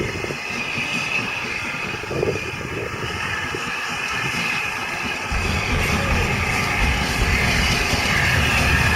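A steam train running on the line, with a continuous hiss and rumble. A deeper rumble comes in about five seconds in.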